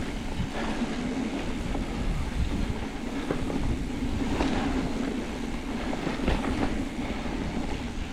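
Mountain bike rolling over rough singletrack: a steady rumble of tyres on dirt and rock, with short knocks and rattles from the bike as it goes over bumps.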